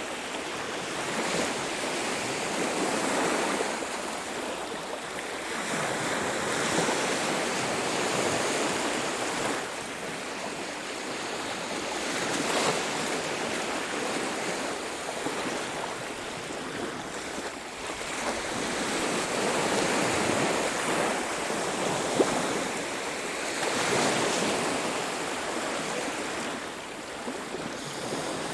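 Surf washing onto a beach, the waves swelling and falling back every few seconds, with one sharp click about three-quarters of the way through.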